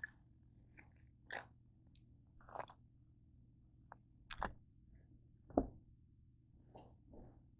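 A person chewing a crunchy snack of cinnamon-covered Wheat Thins crackers and cookies: a handful of short, separate crunches and mouth sounds about a second apart, the loudest about five and a half seconds in.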